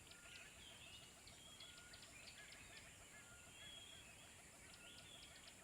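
Faint nature-sound background: scattered short bird chirps and whistles over a steady high hiss.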